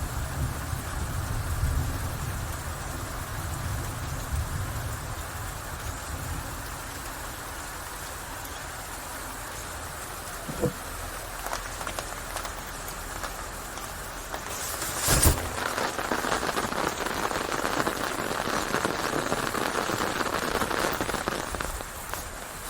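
Steady rain falling, with a low rumble in the first few seconds. There is a sharp knock about fifteen seconds in, after which the rain is louder.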